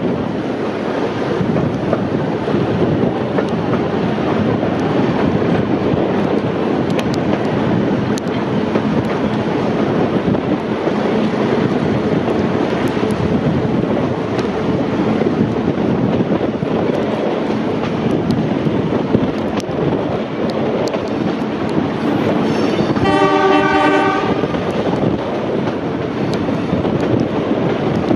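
A passenger train running steadily, heard from aboard a carriage, with the rumble and hiss of wheels on rail. About five seconds before the end comes one short, chord-like blast of the 930 class Alco diesel locomotive's horn.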